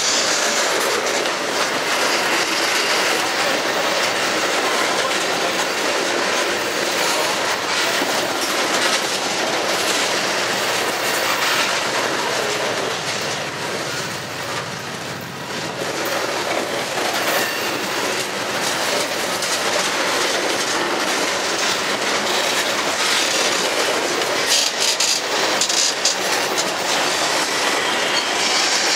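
Freight train tank cars rolling past on steel rails: a continuous rumble of wheels with clacks as the wheels cross the rail joints, briefly quieter about halfway and with sharper clacks near the end.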